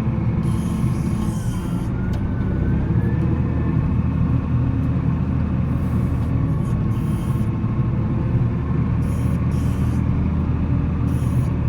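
Volvo L70C wheel loader's diesel engine running steadily as it plows snow, a continuous low rumble.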